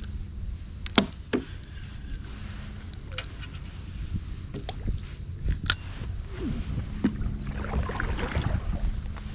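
Sharp knocks and clicks of gear against a kayak, over a steady low hum, with a rustling, splashy stretch near the end.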